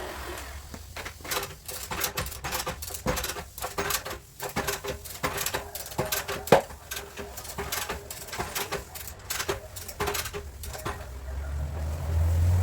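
Rapid, irregular light hammer taps on the sheet metal of a Peugeot's front body panel during dent repair, with one sharper strike about six and a half seconds in. A low rumble swells near the end.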